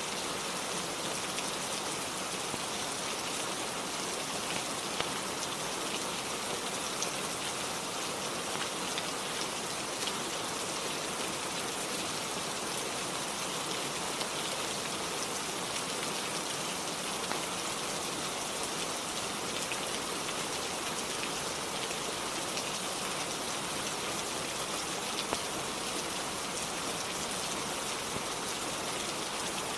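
Rain falling steadily on a roof: an even hiss with scattered sharper ticks of drops.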